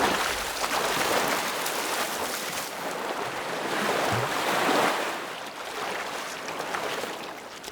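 Surf washing onto a beach: a steady, noisy wash of water that swells a little about four to five seconds in.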